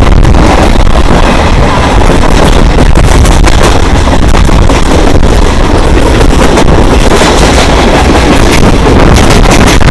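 Moving Mumbai suburban train, heard as a loud, distorted rumble with many sharp clicks and rattles, and wind buffeting the microphone.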